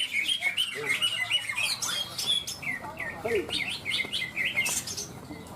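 Caged greater green leafbirds (cucak ijo) singing: a rapid, unbroken stream of chirps and short sliding whistled notes.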